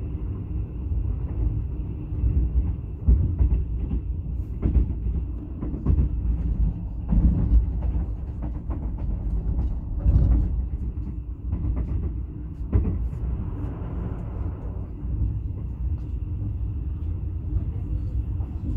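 A passenger train running along the track, heard from inside the carriage: a steady low rumble with scattered knocks and clatter.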